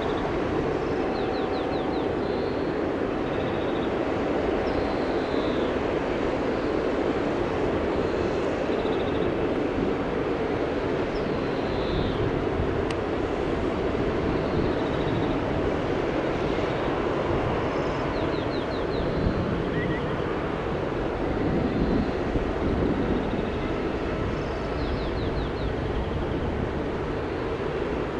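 Steady jet engine noise from an Airbus A321neo airliner taking off. Small birds chirp briefly over it several times.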